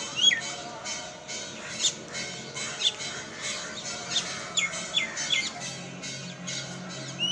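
A flock of birds calling: many short, sharp calls overlapping, several sliding steeply down in pitch, repeated every half second or so, over a faint low steady hum.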